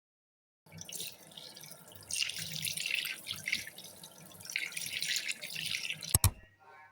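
Tap water running and splashing into a sink. It starts suddenly just under a second in and stops about six seconds in, ending on a sharp knock.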